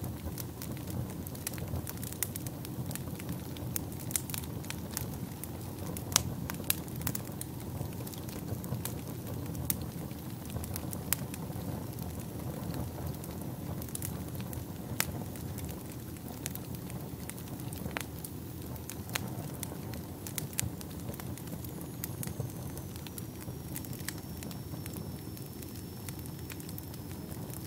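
Wood fire burning in a fireplace: a steady low rumble of flames with irregular crackles and occasional louder pops. A faint thin high tone starts and slowly falls a few seconds before the end.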